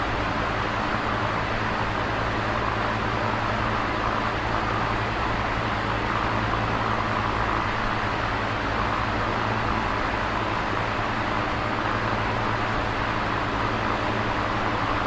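Electric fan running steadily: an even whooshing noise of moving air over a low motor hum.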